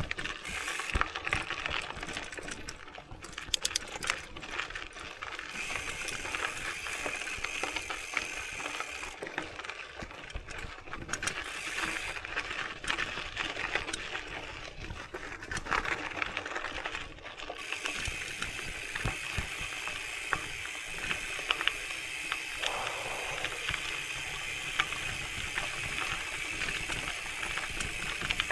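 Mountain bike ridden over rough trail: the chain and parts rattle with frequent small clicks and knocks, and the rear hub's freewheel ratchet buzzes over long stretches while coasting.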